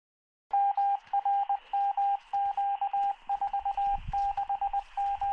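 Morse code coming over a two-way radio: a single beeping tone keyed on and off in short dots and longer dashes, heard through the radio's small speaker. It starts about half a second in.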